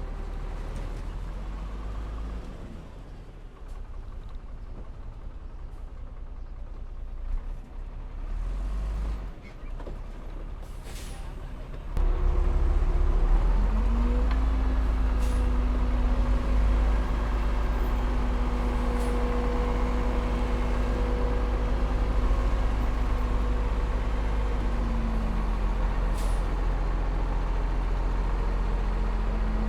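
Heavy diesel engine of earthmoving machinery running, quieter at first, then suddenly louder about twelve seconds in. Its pitch rises a couple of seconds later, holds steady, and drops back near the end, with a few brief hisses along the way.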